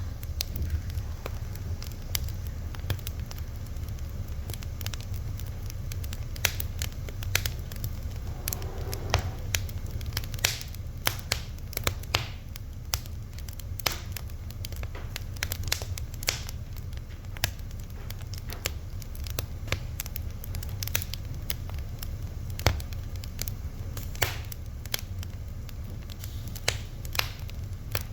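Wood fire burning with irregular sharp crackles and pops over a steady low rumble of flame, and a brief faint hiss about eight seconds in.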